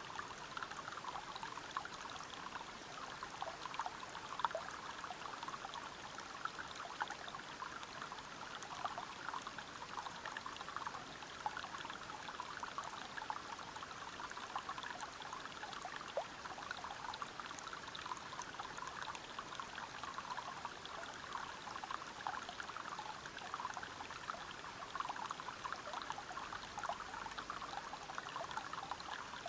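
River water flowing and splashing over rocks at a small waterfall: a steady, even rush of water with fine splashing and no pauses.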